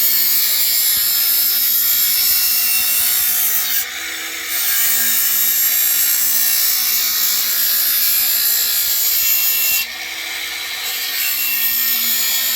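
Work Sharp MK2 powered belt sharpener running, with a steel mower blade ground against its abrasive belt in a steady hiss over a faint motor hum. The grinding eases briefly twice, about four seconds in and about ten seconds in.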